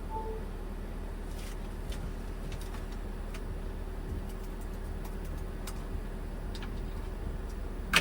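A steady low machine hum, with scattered light clicks and taps and a short beep right at the start.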